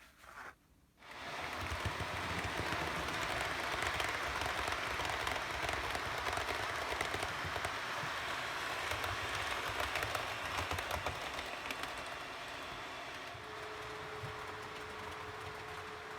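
Model railway train running on the layout's track: a steady rumbling hiss of wheels on rail with many small clicks, starting about a second in. A steady hum-like tone joins near the end.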